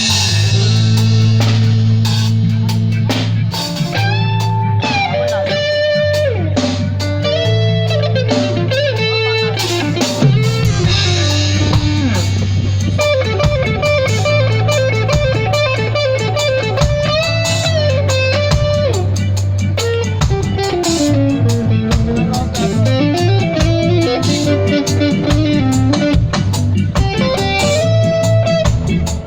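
Live band jamming: an electric guitar plays a melodic lead with bending notes over sustained low bass notes and a steady drum beat.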